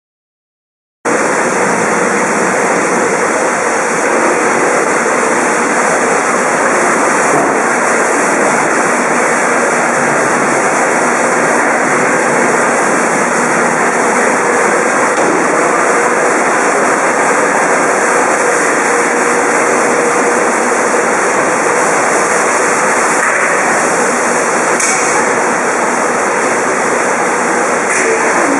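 Hosoda Kogyo Raccoon 4B vegetable washing and sterilizing machine running: a loud, steady rush of churning water with a faint motor hum underneath. It starts abruptly about a second in.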